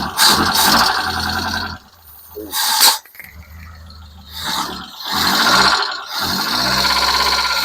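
Ford 2.0 Pinto single-overhead-cam four-cylinder engine running, its sound swelling and dropping in several surges, with the loudest stretch in the second half.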